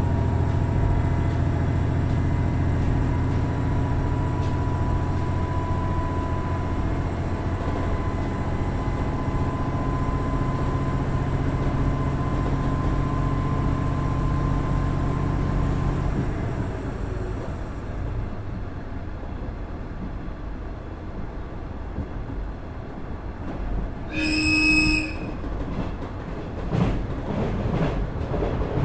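Inside a KiHa 110-series diesel railcar: its Cummins DMF14HZA engine drones under power with a whine rising slightly, then drops off about halfway through as the car coasts with quieter rail noise. Near the end comes one short horn blast, about a second long, followed by wheel clicks.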